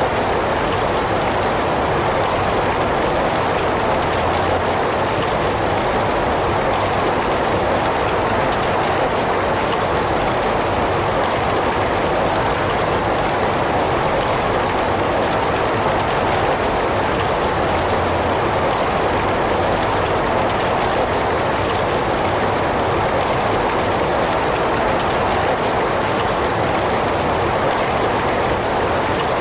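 Heavy rain falling steadily, an even, unbroken hiss of rain with no gusts or pauses.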